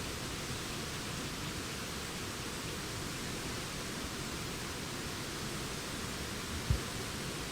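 Steady, even rush of wind through the forest's autumn leaves, with no birdsong. One brief low thump comes near the end.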